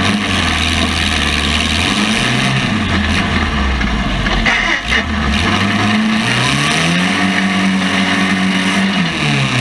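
Compact car engines revving, the pitch climbing and dropping back again every few seconds.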